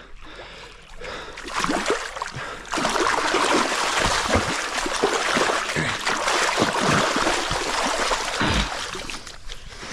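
Water splashing and churning as a hooked fish thrashes at the surface while it is pulled in, loudest from about three seconds in until near the end.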